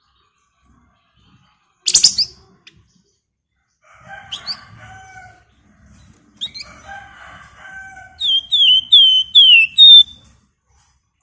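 Flamboyan (wergan Jawa) songbird singing. A sharp note about two seconds in is followed by chattering phrases, then a run of about six loud, quick downslurred whistles near the end.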